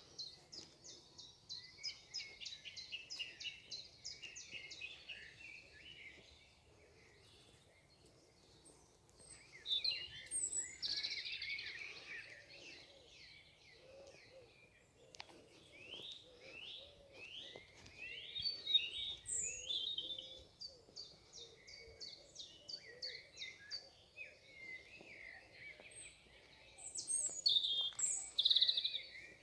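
Several songbirds singing at once, overlapping songs of rapid repeated notes, trills and down-slurred whistles. The song swells louder about ten seconds in and again near the end.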